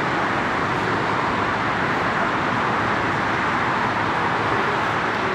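Steady rushing roar of a Boeing 777-300ER's GE90 jet engines. The level holds even throughout.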